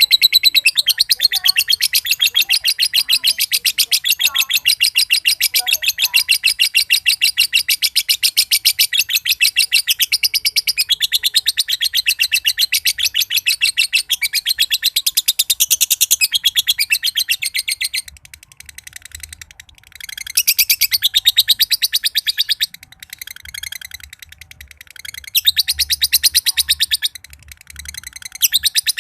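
Green (standard-colour) male lovebird giving a long ngekek chatter: a fast, unbroken run of sharp, high chirps repeated many times a second. It breaks off about eighteen seconds in and resumes in shorter bursts.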